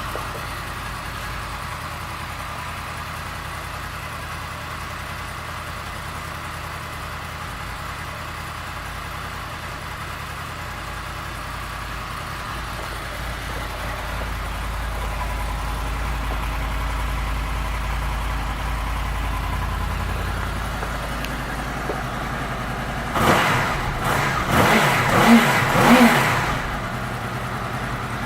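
2007 Honda VFR800 Interceptor's V4 engine idling steadily, then revved in a few quick throttle blips near the end before settling back to idle.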